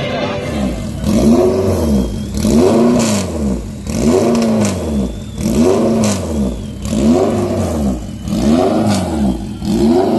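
A Honda Civic drag car's engine being revved over and over at the start line, its pitch climbing and dropping about seven times, roughly once every second and a half.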